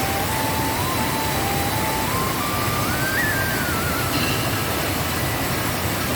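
Waterfall in rainy-season flood: a steady rush of falling water. A faint thin tone drifts slowly up and down in pitch above the roar.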